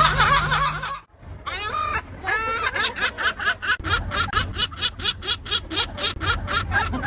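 A gull's laughing call: a few drawn-out notes, then a fast, even run of short repeated notes, about four a second. Before it, a different pitched, wavering sound cuts off abruptly about a second in.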